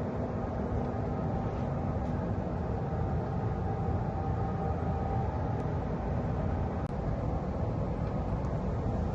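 Steady low mechanical rumble with a faint, even hum on top, unchanging in level.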